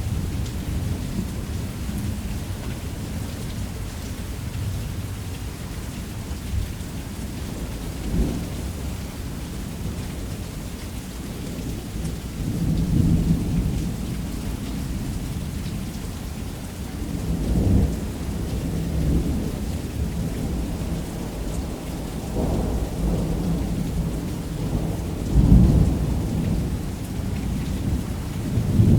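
Steady rain with several rumbles of thunder swelling and fading, the strongest about 25 seconds in.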